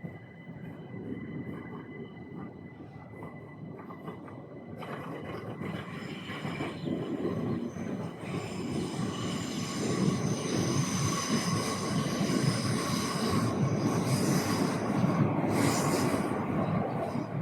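A train passing on the railway, its rumble growing louder from about a third of the way in, with high-pitched wheel squeal over the rumble through the second half.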